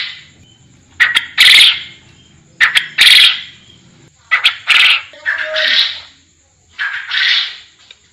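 Forest quail (puyuh hutan) calling over and over, about once every second and a half, each call a short note running straight into a longer, louder one.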